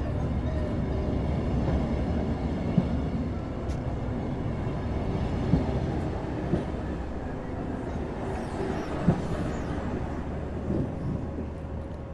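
Passenger train hauled by a TEP70BS diesel locomotive rolling past with a steady low rumble and a few sharp knocks, growing fainter near the end as it moves away.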